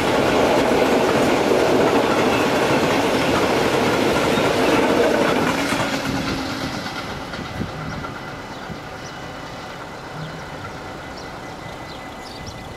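Coal train's hopper wagons rolling past over the level crossing. The sound stops being loud when the last wagon clears about six seconds in, then fades away.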